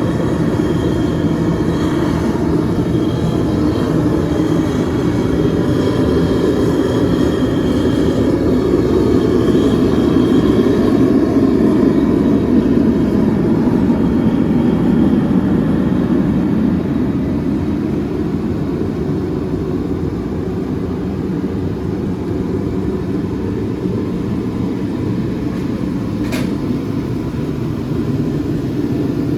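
Sealey IR55 infrared paraffin/diesel heater running: a loud, steady low rush of its fan and burner, with a single sharp click near the end.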